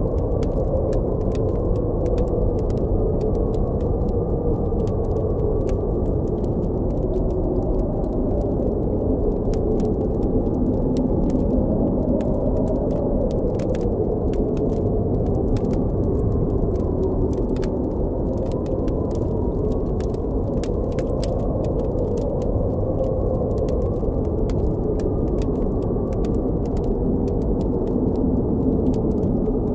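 Blizzard wind blowing steadily, a deep rush with a howl that slowly rises and falls in pitch, over frequent small, irregular crackles of a campfire.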